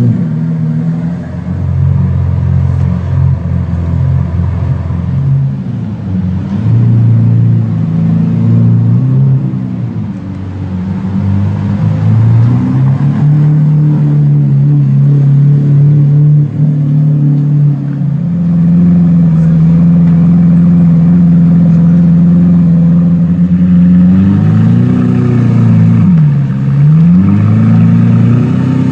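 Lamborghini Aventador LP700-4's V12 engine running at low revs as the car drives off, its pitch stepping up and down, then holding steady about two-thirds of the way through. Near the end the engine is blipped twice in quick revs.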